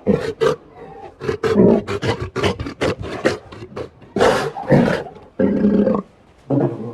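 A rapid run of short, harsh animal calls, one after another, with a brief pause about six seconds in.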